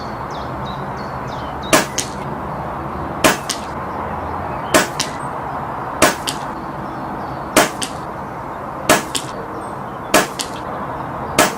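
Brocock Concept PCP air rifle firing a rapid string of eight shots, about one every second and a half. Each sharp crack is followed a fraction of a second later by a fainter click.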